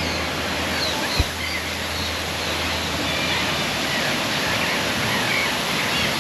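Steady rushing of a large aviary waterfall, with faint short bird chirps above it and a single low thump about a second in.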